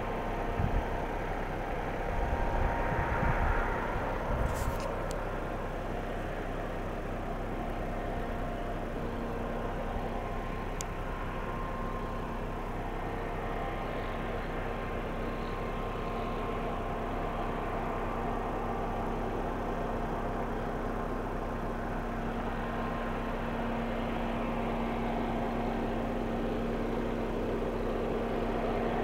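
Engine running steadily with a constant hum. Wind buffets the microphone in the first few seconds.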